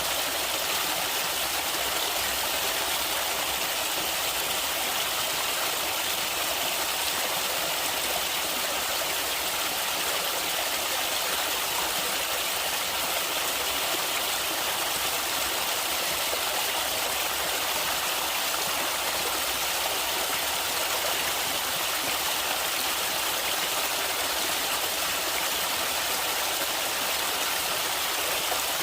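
Stream water rushing and splashing over rocks in a steady, unbroken hiss.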